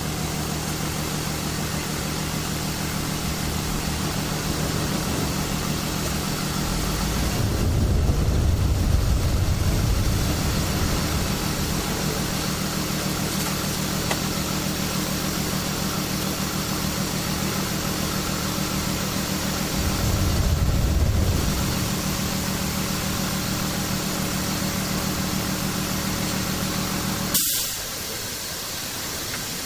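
Car engine running steadily at idle, swelling louder twice for a couple of seconds, then shut off abruptly near the end, leaving a steady hiss.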